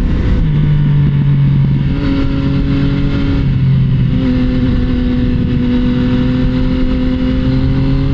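Motorcycle riding at a steady cruising speed, with heavy wind noise on the rider's microphone over the engine's drone.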